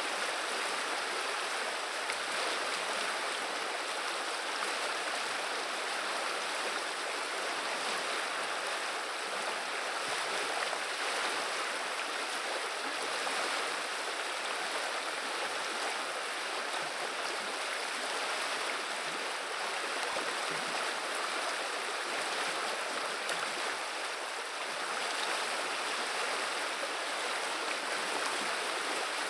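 Flowing river water: a steady, even rushing murmur of the current.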